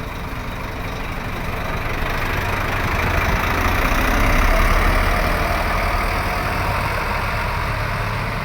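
Scania K340IB bus's diesel engine running, its rumble growing louder to a peak about halfway through and then easing off.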